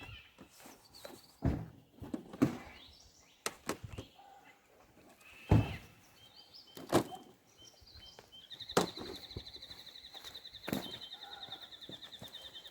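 Several sharp knocks and thunks, spaced a second or so apart, then a high, fast trill held steady for about four seconds near the end.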